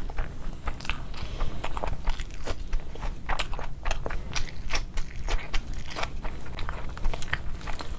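Close-miked chewing of a mouthful of fried rice and chicken, a steady stream of irregular mouth clicks and soft crunches, several a second.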